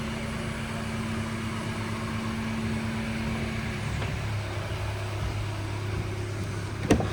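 A steady mechanical hum that drops to a lower pitch about four seconds in, with a sharp click near the end.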